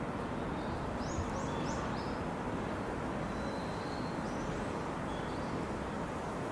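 Steady outdoor background noise with small birds chirping: a quick run of short, high chirps about a second in, and a few more scattered later.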